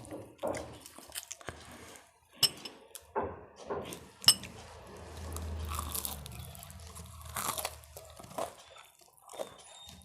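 A person eating close to the microphone: irregular crunching, biting and chewing of crisp food, with a couple of sharper crunches.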